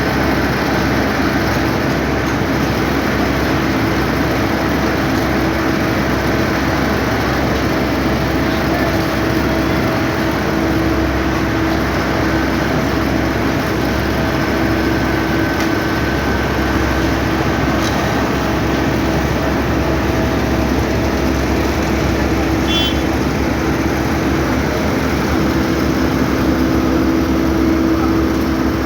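An engine running steadily: a constant drone with a few held tones over a broad rushing noise, with no change in speed.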